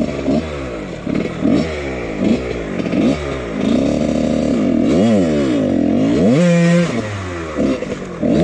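1999 Husqvarna CR125 single-cylinder two-stroke dirt bike engine revving up and down over and over as the throttle is worked on a woods trail. It holds a high, sustained rev a little past halfway, then drops off.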